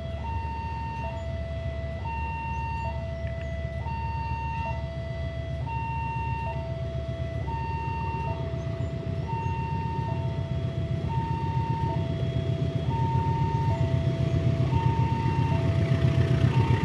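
Railway level crossing warning alarm sounding a steady two-tone high-low signal, each tone held just under a second: the crossing is closed for an approaching train. Under it a low rumble grows louder toward the end.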